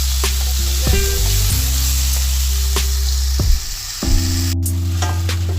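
Chicken pieces sizzling in olive oil with onion and garlic in a frying pan, with scattered clicks and scrapes of a utensil stirring them.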